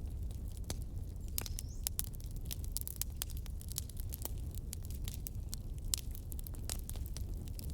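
Wood fire burning in a fireplace: frequent irregular sharp pops and crackles over a low steady rumble of the flames, with one brief high hiss about a second and a half in.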